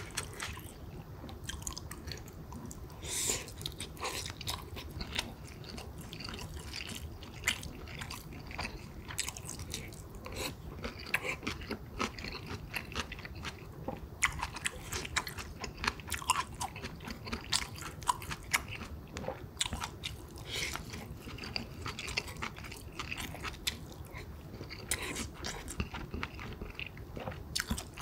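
A person chewing and biting rice with pork kimchi stew, with many short clicks and smacks throughout.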